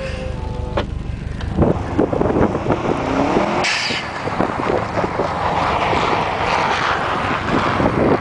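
Car engine running and revving as it drives on snow, with a rising rev about three seconds in, over a rough, crackling rumble.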